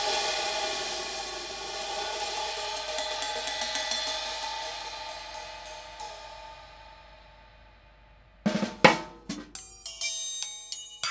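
Kamin K-Klasse 16-inch paper-thin B20 bronze hi-hat cymbals ringing out in a long bright wash that fades away over about eight seconds. Near the end come two sharp stick strikes, then a few lighter taps that leave clear ringing tones, and another strike.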